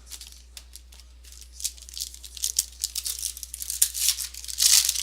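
Trading cards and their foil packaging being handled: quick clicks and crinkling, growing denser and loudest about four and a half seconds in.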